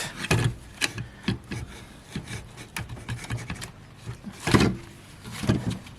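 A new alternator being worked into its mounting in a car's engine bay: irregular scrapes and small knocks as it is shifted and fitted, with one louder clunk about four and a half seconds in.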